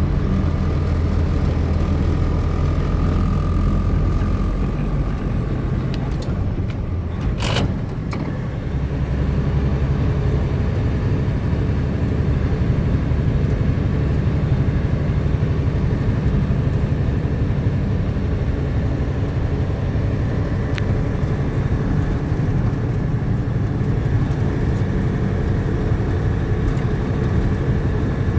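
Milk truck's engine and road noise as it drives along, a steady low drone. Loudness dips briefly about seven seconds in and then builds back up, with one short sharp sound at that point.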